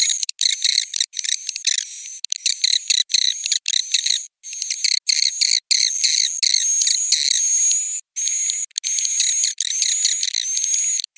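Recorded swiftlet roosting calls: dense, rapid high-pitched twittering and chirps with some drawn-out whistles, broken by brief abrupt gaps, all pitched high with nothing low. This is a lure track played in swiftlet houses to draw the birds in to roost and nest.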